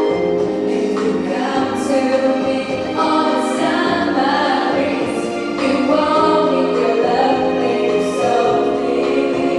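A song sung by a group of voices together over instrumental backing.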